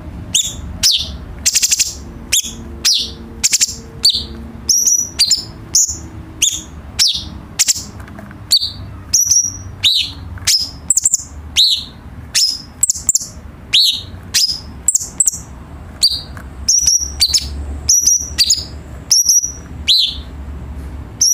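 Cucak cungkok singing a long run of short, sharp, high-pitched notes, about two a second, many of them dropping quickly in pitch, over a faint low hum.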